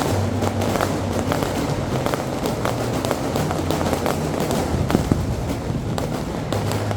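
Aerial fireworks display going off: continuous dense crackling mixed with many sharp bangs, with one louder bang about five seconds in.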